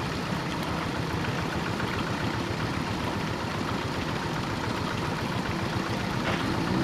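Quick G1000 paddy-field hand tractor's single-cylinder diesel engine running steadily with a fast, even chugging.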